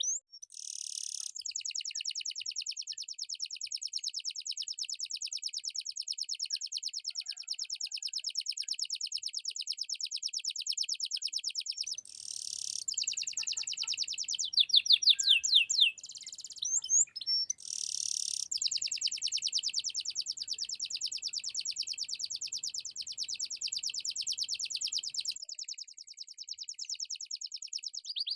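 Domestic canary singing in full song: long rolling trills of fast, evenly repeated high notes, broken here and there by quick sweeping notes and short pauses.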